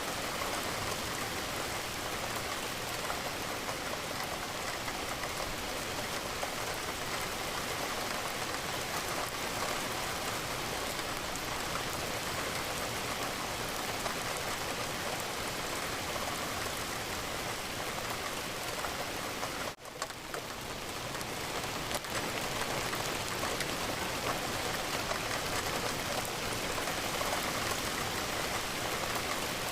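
Steady rain falling and pattering against a window. About twenty seconds in it drops out briefly and swells back in over a second or two.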